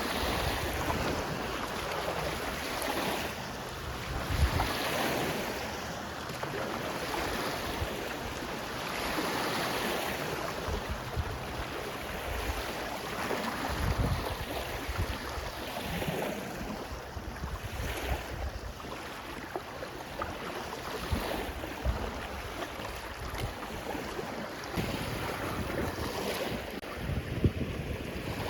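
Lake waves washing on the shore, swelling and easing every second or two, with wind gusting on the microphone.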